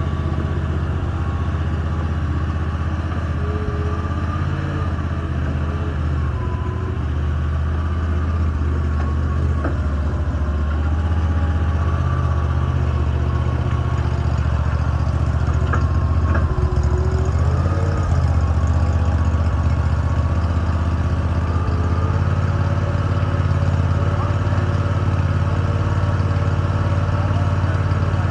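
A large engine idling steadily: a low, even drone with a faint wavering whine on top.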